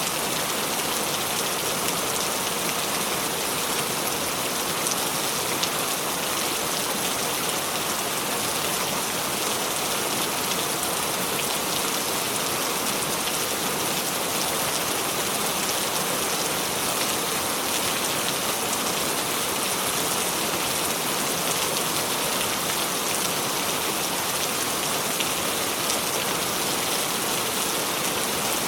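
Steady rain falling on a surface, an even hiss of many small drops that keeps up without change.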